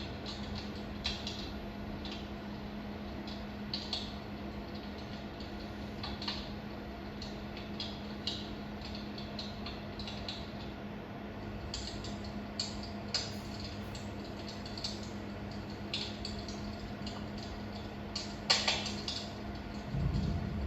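Wood fire crackling, with irregular sharp pops and snaps over a steady low hum; the loudest pops come near the end.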